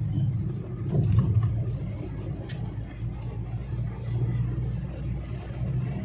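Steady engine and road hum heard from inside a moving vehicle, a little louder about a second in.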